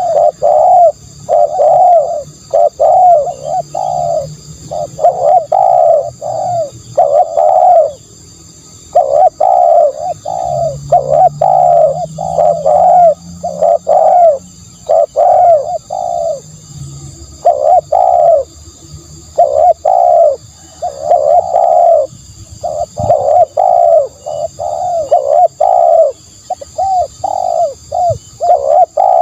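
Spotted doves cooing: runs of low, rapid coo notes in phrases separated by short pauses. A faint steady high-pitched whine sits behind them.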